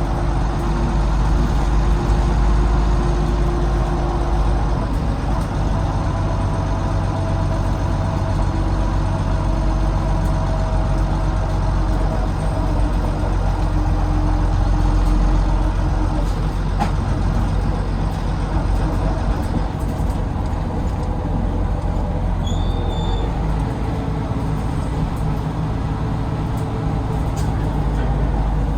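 Volvo D9B diesel engine of a Volvo B9TL double-decker bus running under way, heard from the rear seats, with thin whining tones that come and go over the rumble. The low rumble eases off about twenty seconds in.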